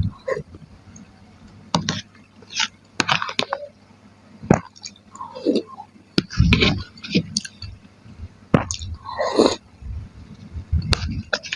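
Close-miked chewing and biting of chicken and tofu curry: wet, squishy mouthfuls with sharp clicks, coming in irregular bursts a second or two apart.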